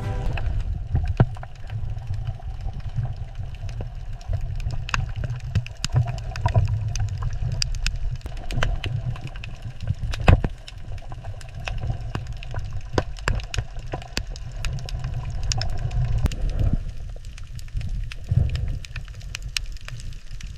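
Underwater ambience: a low rumbling wash of water with scattered sharp clicks and crackles throughout.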